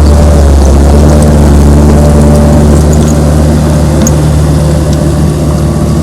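Komatsu D31P bulldozer's diesel engine running loud and steady at an even pitch.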